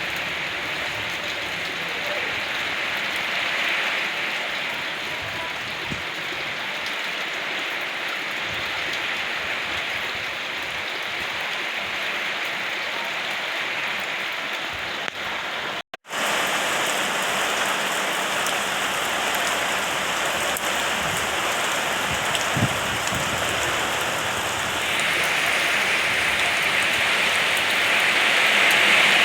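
Steady rain falling: an even hiss of drops hitting surfaces. About halfway through it cuts out for an instant and comes back slightly louder, and it grows louder again near the end.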